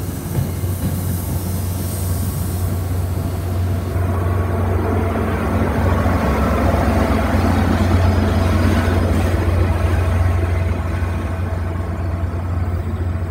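Diesel commuter-rail locomotive and its coaches passing close. The engine gives a steady low drone under the rumble of the wheels and rails, growing louder towards the middle as the locomotive goes by and easing off after.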